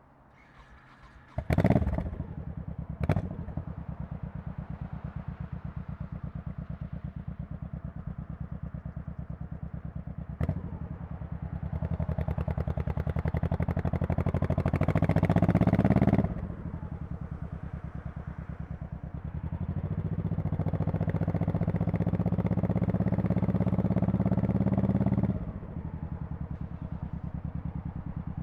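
Honda Shadow Spirit VT1100C's 1,099 cc V-twin starting up about a second and a half in, then idling with a steady, even pulse. A single clunk comes near ten seconds in. The engine note then rises twice under throttle, and each time it drops sharply back to idle.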